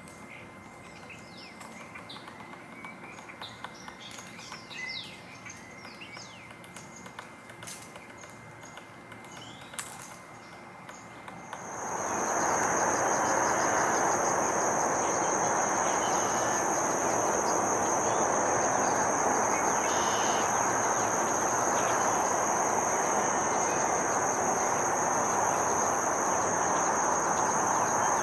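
Small birds chirping and calling in a marsh. About twelve seconds in, the sound jumps louder to a steady rushing noise with a continuous high-pitched insect drone.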